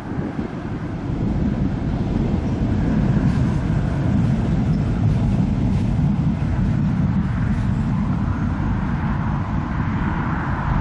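Turboprop airliner engines running at high power close by: a loud, steady low rumble that builds over the first second or two, with a higher drone coming up toward the end.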